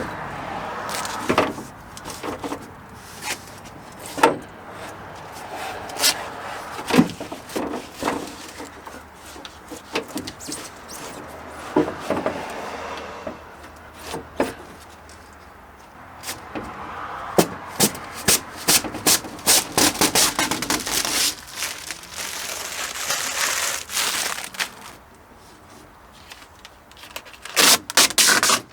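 Hands fitting plastic and metal car-door parts: irregular clicks, knocks and rubbing or scraping, busiest in the second half.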